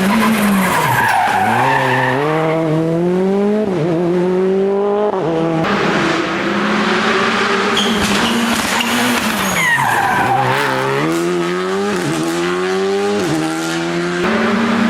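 Rally car engine pulling hard up through the gears, its pitch climbing and then dropping back at each upshift, with tyre squeal. About halfway through, the pitch falls away and a fresh run of climbing upshifts follows.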